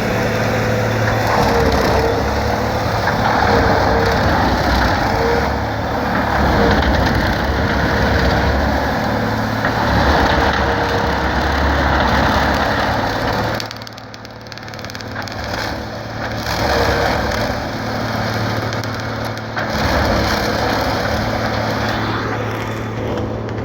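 Case IH MX210 tractor running under load, driving a Highline bale processor as it shreds a reed canary grass bale: a dense crackling rush of grass being flailed over a low engine hum and a steady whine. The shredding eases for a moment about halfway through, then picks up again.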